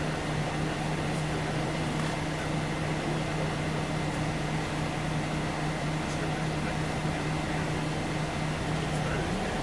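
Scania OmniLink CL94UB city bus heard from inside the passenger cabin: the diesel engine runs steadily, low and even, with a thin steady whine above it. Near the end the engine note rises as the bus begins to pull away.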